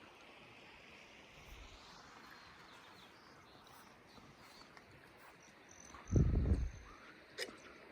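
Faint outdoor ambience with a few thin, high chirps. A short low rumble about six seconds in is the loudest sound, and a sharp click follows about a second later.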